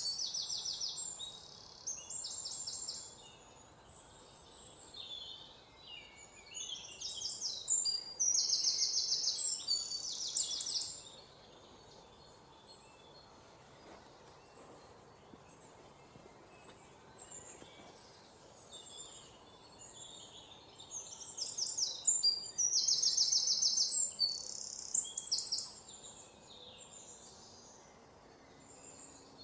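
Songbirds singing in bouts of rapid, high trills and chirps. The loudest stretches come at the very start, about seven to eleven seconds in and again about twenty-one to twenty-six seconds in, with softer scattered chirps in between over a faint outdoor background.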